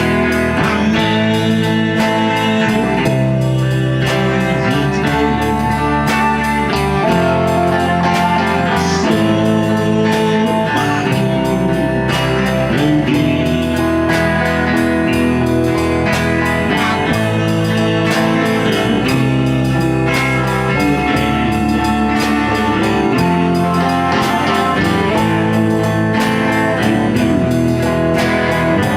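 A band playing an instrumental passage: guitar over bass and a steady drum beat, with no singing.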